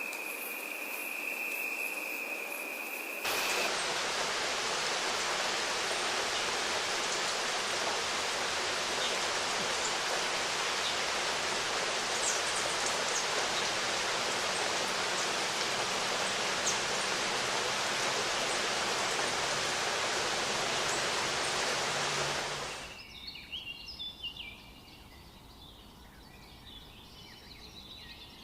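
A steady rushing of water, like a waterfall or stream, sets in suddenly a few seconds in and cuts off abruptly near the end. A steady cricket trill comes before it, and scattered bird chirps follow it.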